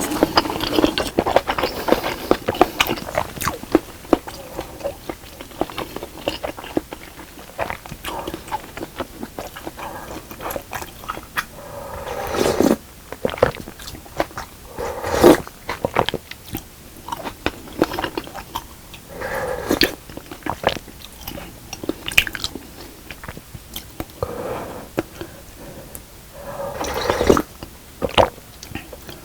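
A person chewing and biting food from a spicy fish cake and rice cake soup close to the microphone: wet mouth clicks, with short louder bursts every few seconds.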